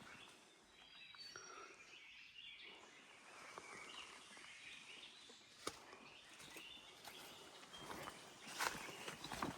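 Faint forest ambience with small birds chirping and calling in short high notes, one sharp click a little past halfway, and a few louder crackles near the end.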